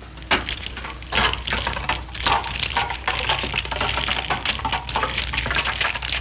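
Rapid, irregular clattering and clicking in clusters, growing nearly continuous after about three seconds, over a steady low hum.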